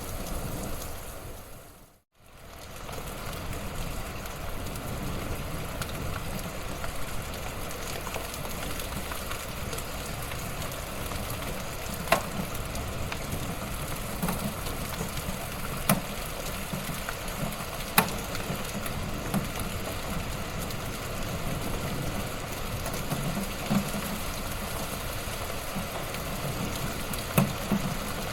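Wood fire crackling in a fireplace: a steady hiss of burning with occasional sharp pops. The sound fades out briefly about two seconds in and fades back up.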